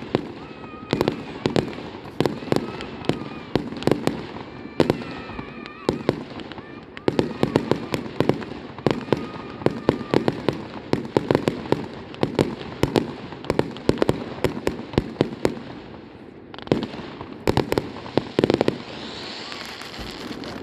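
Aerial fireworks bursting in rapid, irregular succession, several sharp bangs a second with a few brief pauses. A hissing swells near the end.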